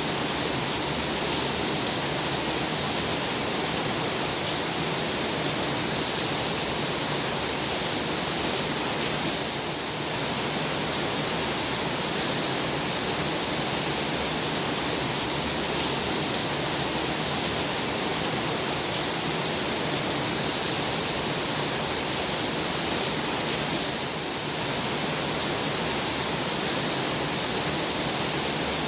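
Heavy rain falling in a steady, dense hiss, dipping slightly in level twice.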